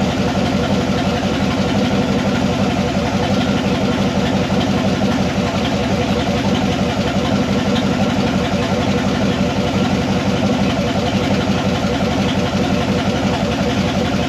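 1976 Corvette's 350 small-block V8 idling steadily, with the A/C system running.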